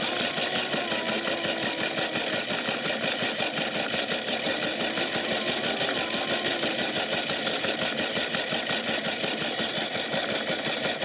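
Washing machine running with a big rock tumbling inside it, making a steady, rapid rattling clatter.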